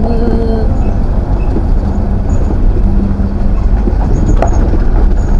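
Truck engine running with a loud, steady low rumble of engine and road noise while driving, and a brief knock about four seconds in.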